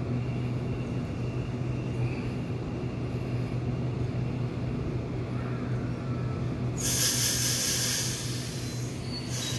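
A Sydney Trains double-deck electric train stands at the platform, its onboard equipment giving a steady low hum. About seven seconds in, a sudden loud hiss of air sounds for nearly two seconds, and another starts near the end, as the air brakes release ahead of departure.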